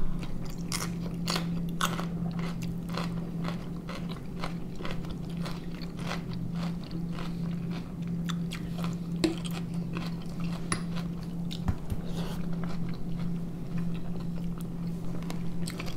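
Close-up chewing with frequent crisp crunches as a green pepper is bitten and chewed, over a steady low hum.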